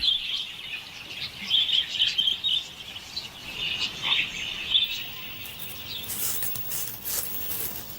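Wild budgerigars chirping and chattering in short, irregular bursts of high warbling calls, with faint clicks near the end.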